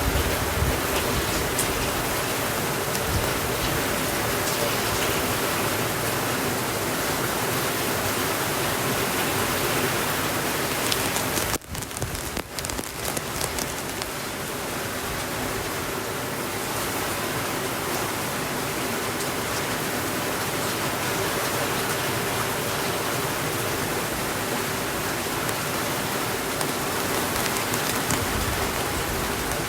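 Steady rainfall, an even hiss of many drops. About twelve seconds in the sound briefly drops away and returns slightly softer.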